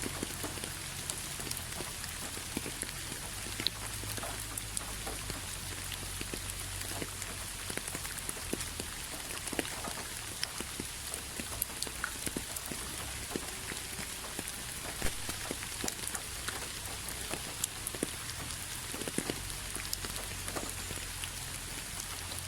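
Steady rain falling, with individual drops ticking sharply against the hiss and a low rumble underneath.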